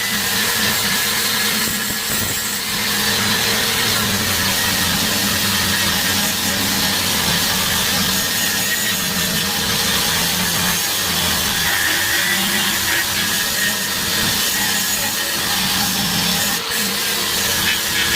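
Handheld electric power tool running steadily without a break, working over the rusty hand saw, with a steady motor hum under a wide hiss.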